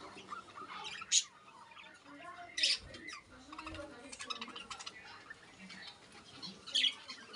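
Pet lovebirds chattering in a stream of small high chirps, with three sharp squawks: one about a second in, another a second and a half later, and one near the end.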